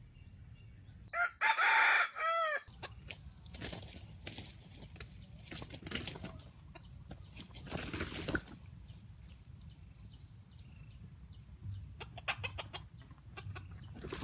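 A wild chicken squawking loudly, a quick run of harsh calls lasting about a second and a half. Intermittent scuffling and rustling follow, with a cluster of sharp clicks near the end.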